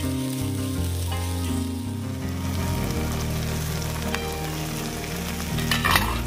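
Onions and a spice paste frying and sizzling in hot oil in a kadai as they are stirred, with spice powders tipped in partway through. A brief louder burst comes just before the end.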